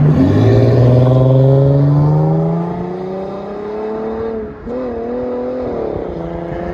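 Dodge Challenger V6 on an aftermarket exhaust accelerating hard, its note climbing steadily for about four seconds, dropping briefly at an upshift, then pulling on at a lower, steady note.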